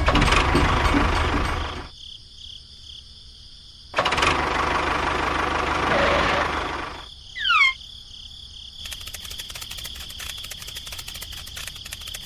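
Small engine running in short, abruptly cut stretches, with a brief falling whistle about halfway through and rapid steady ticking in the last few seconds.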